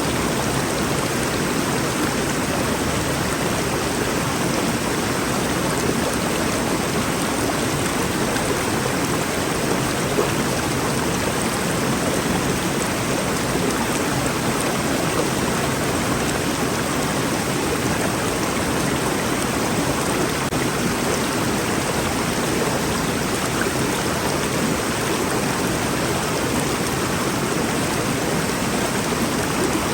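Rainforest river flowing steadily, a constant even rush of water.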